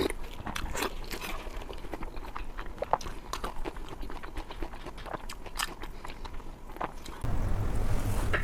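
A person biting and chewing food close to the microphone, with many short sharp clicks and smacks. About seven seconds in, a steady low hum starts suddenly and stays under the eating sounds.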